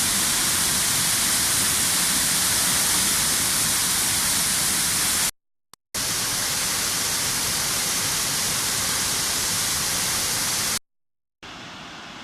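Waterfall in flood after cyclone rain: a steady rush of falling water. It stops dead twice, about five and a half and eleven seconds in, and comes back much quieter at the end.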